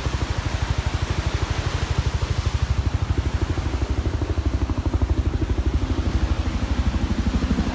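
A low engine running with a rapid, even pulsing beat; a pitched hum rises in over the second half.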